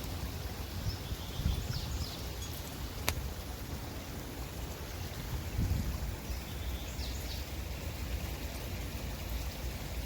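Small creek flowing steadily, a continuous rush of running water. A few short high bird chirps come through twice, and a single sharp click sounds about three seconds in.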